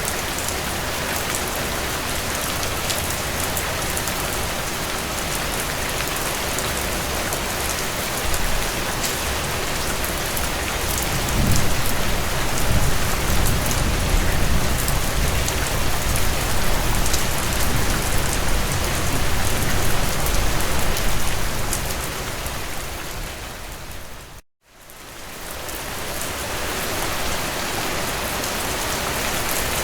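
Heavy rain drumming steadily on a tin roof, with a long low rumble of thunder starting about a third of the way in and lasting some ten seconds. Late on, the sound fades to silence for a moment and then fades back in.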